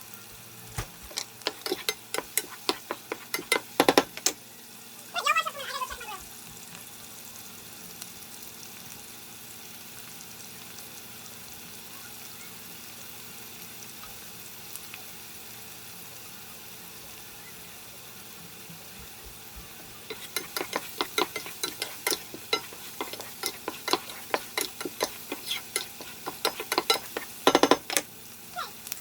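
Onions and garlic sizzling in a skillet, with a utensil scraping and tapping against the pan in two spells of stirring: in the first four seconds and again from about twenty seconds in. A short falling tone sounds about five seconds in.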